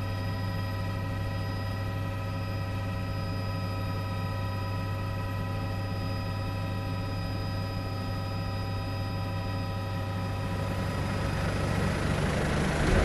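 Steady drone of a police helicopter's engine and rotors heard through the aircraft's own recording, a low hum with a set of fixed whining tones above it. It grows louder in the last second or two.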